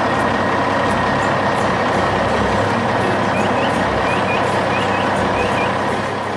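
Heavy excavator engines running steadily under load, with a constant whine over the machine noise. A few faint short chirps are heard about halfway through, and the noise eases slightly near the end.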